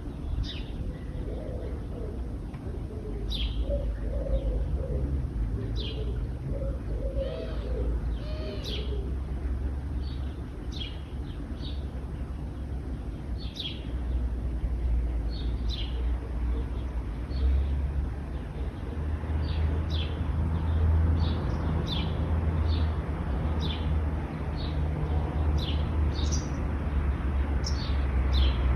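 Small birds chirping over and over in short, high, down-slurred notes, with a dove cooing low in the first third. Under them runs a steady low road-traffic rumble, joined by a hiss that builds in the second half.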